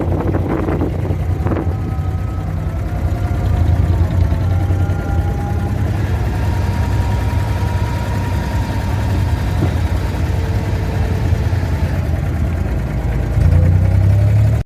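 An abra water taxi's engine running steadily with a low hum, growing louder about a second before the end.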